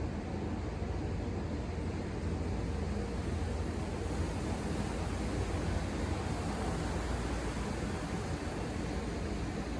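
Ocean surf heard from a distance as a steady wash and rumble, with a faint steady hum underneath.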